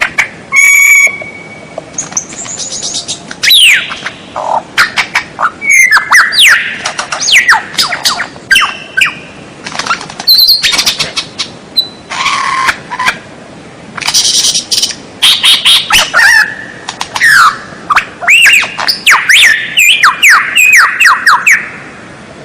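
White-rumped shama (murai batu) singing vigorously: a fast, unbroken stream of varied whistled notes, swooping glides and short sharp calls mixed with harsher notes.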